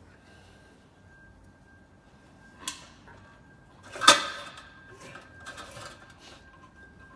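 A sharp click, then about a second and a half later a much louder knock that rings briefly, followed by a couple of seconds of light rattling and scraping, over a faint steady high tone.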